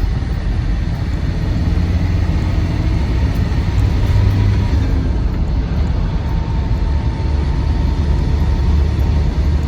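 Land Rover Defender 90 Td5's 2.5-litre five-cylinder turbodiesel and road noise heard from inside the cab while driving: a steady low rumble. A faint steady whine joins about halfway through.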